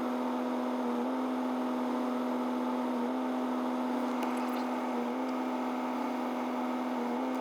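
Steady whirring hum inside a pickup cab: the RAM's Cummins 6.7 inline-six turbodiesel idling while still cold from a cold start, with the heater blower running.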